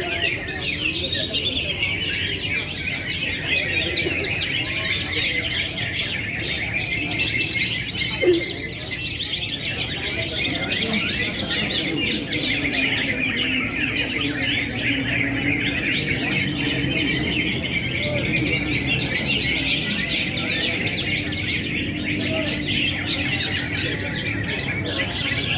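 Dense chorus of many caged songbirds chirping and singing at once, the massed sound of a songbird contest, over a low, steady murmur of a crowd.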